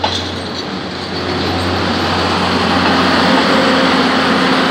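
Philippine National Railways passenger train rolling past at close range: a steady rumble of coaches and running gear over a low hum, growing somewhat louder toward the end.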